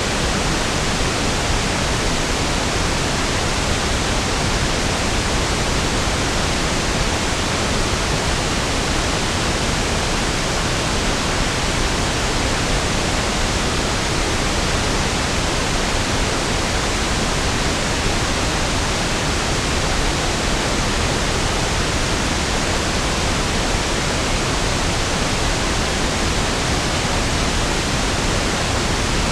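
Steady pink noise (1/f noise): an even, unchanging hiss with equal energy per octave, smoother and deeper than white noise.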